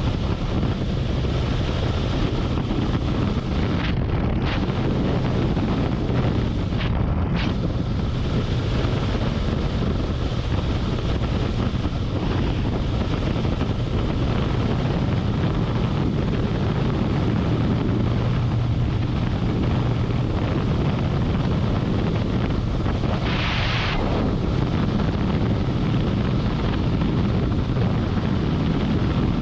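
Harley-Davidson Road Glide's V-twin engine running steadily at highway speed, with heavy wind noise on the microphone. A short rush of noise rises and fades about three-quarters of the way through.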